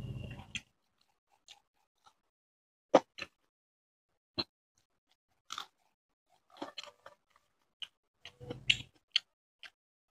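A person chewing and smacking while eating rice and fish curry by hand. The sound is a run of sharp mouth smacks and clicks with gaps between them, some coming in quick clusters, and two brief low muffled stretches, one at the start and one near the end.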